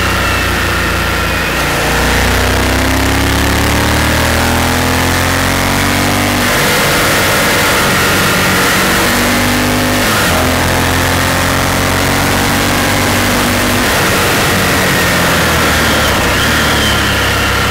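Honda Varadero motorcycle's V-twin engine running on the road, its pitch climbing as it pulls and dropping back about six and ten seconds in before climbing again, over steady wind rush.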